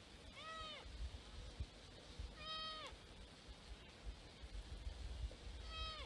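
Mule deer bleating three times, each a short pitched call that rises and falls, about two and a half seconds apart.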